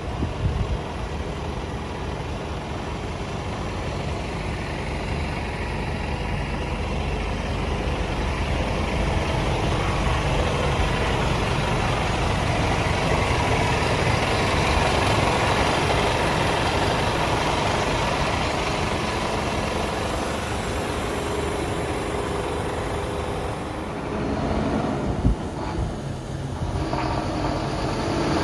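Scania P230 tanker truck's diesel engine running with a steady rumble that slowly grows louder towards the middle and then eases off. A single sharp knock comes near the end.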